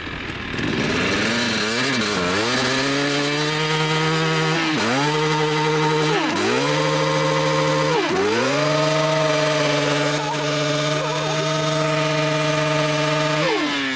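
Small single-cylinder motorcycle engine accelerating hard through the gears: the revs climb and drop sharply three times as it shifts up, then hold steady at high revs for about five seconds before falling away near the end.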